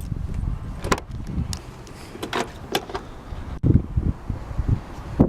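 Clicks, rustling and thumps of someone handling a car's door and cabin, with a heavier thump past halfway and another near the end.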